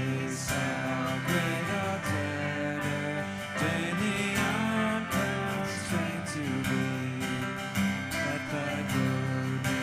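Acoustic guitar strumming chords in an instrumental passage of a hymn accompaniment, without singing.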